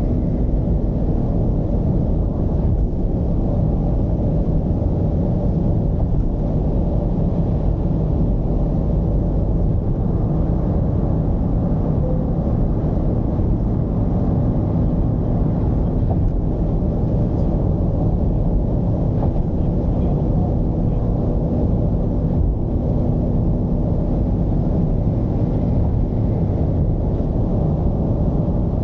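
Mercedes-Benz V220's diesel engine and road noise while driving at a steady speed: a constant low rumble with a faint steady hum and no revving.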